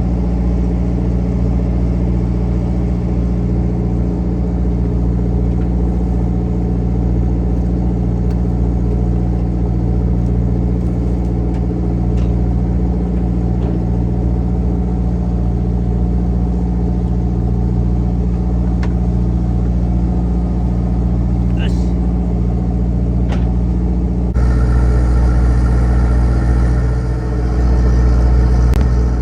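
Fishing boat's engine running steadily with a low, even drone. The sound changes abruptly about three-quarters of the way through.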